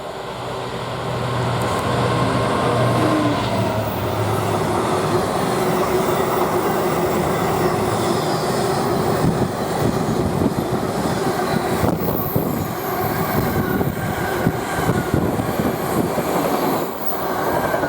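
A train passing close by. A steady engine hum is heard as it arrives, then the wheels clatter and knock over the rail joints with some squeal for the rest of the time.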